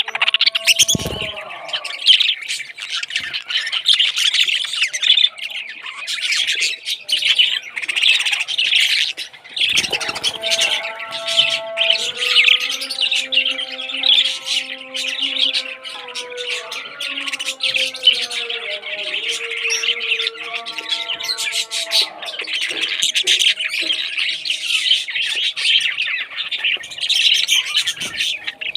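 Many parrots chirping and squawking continuously. From about ten seconds in until about twenty-two seconds, a lower, steady pitched sound with several tones runs beneath the chatter.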